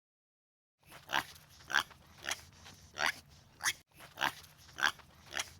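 An animal calling in short, harsh calls, about eight of them at a little over half-second intervals, starting about a second in. The run breaks off briefly near the middle and starts again in the same pattern, like a recording played twice.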